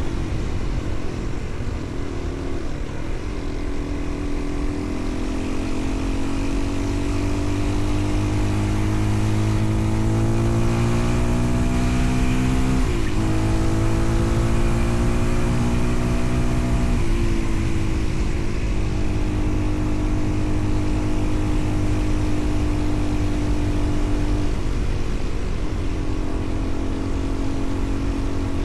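Engine of a moving vehicle heard from on board, running steadily. Its pitch climbs slowly and drops sharply twice around the middle, as with gear changes, then holds fairly even.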